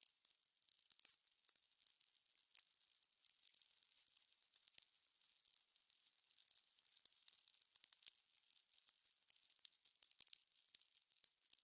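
Fire crackling: a faint hiss with irregular sharp pops and snaps, several a second.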